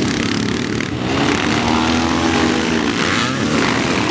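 Several sidecar motocross outfits' engines revving hard, their pitches rising and falling and overlapping.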